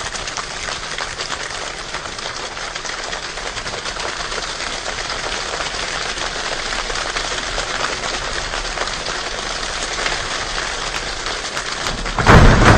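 Rain falling steadily, a dense patter of drops. Near the end a sudden, much louder crack of thunder breaks in.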